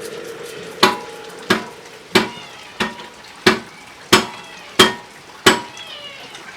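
A series of eight sharp metallic knocks, evenly spaced at about one and a half a second, several leaving a short ring.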